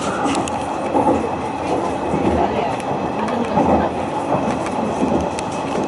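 Hanshin Railway train running along the track, heard from inside the passenger car: a steady rumble of wheels on rails with a few light clicks.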